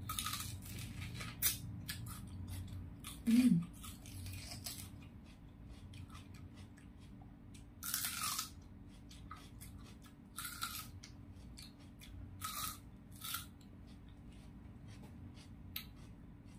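Close-up crunching and chewing of crisp raw vegetables (lettuce and other lalapan greens), a series of short crisp snaps at uneven intervals, loudest about three seconds in.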